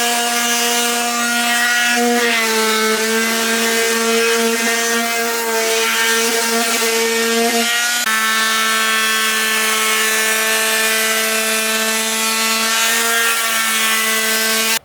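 Electric power tool motor running continuously with a steady whine, its pitch shifting a few times as the load changes, then cutting off suddenly at the end.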